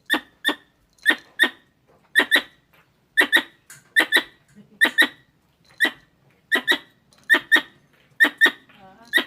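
Squirrel calls: short, sharp chucks in pairs, repeated at about one pair a second.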